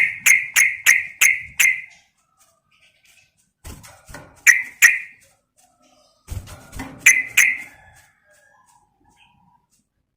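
Yellow-vented bulbul (trucukan) calling: a quick run of about six sharp chirps in the first two seconds, then a pair around the middle and another short burst a couple of seconds later. These are the calls used as a lure, given as a female calling the male.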